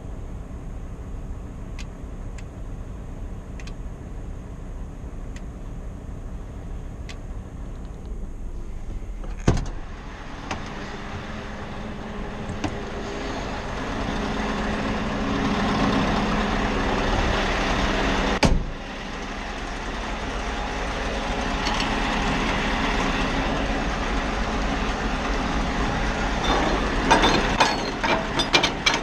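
Scania R520 V8 truck engine heard from the cab: a low rumble with light regular ticks, then the engine pulls harder and builds in level. It cuts off sharply with a loud click about two-thirds of the way in, like a gearshift, then builds again, with a flurry of clicks near the end.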